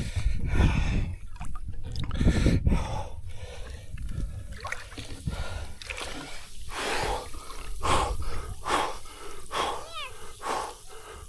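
A person gasping in short, sharp breaths from the shock of icy sea water, with some water splashing. Wind rumbles on the microphone in the first few seconds.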